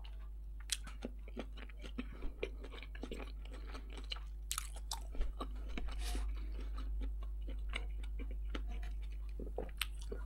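A person chewing food with the mouth close to the microphone: many small wet clicks and soft crunches at an irregular pace.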